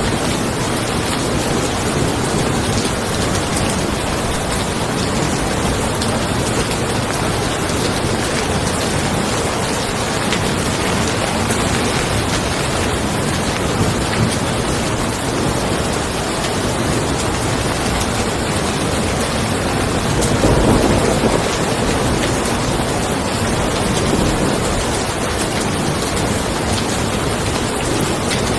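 Steady rain falling on a car, with a low rumble of thunder swelling about twenty seconds in.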